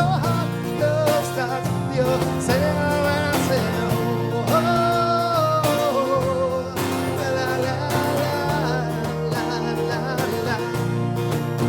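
Live band music with guitar: a lead melody line slides and bends in pitch over steady chords and bass.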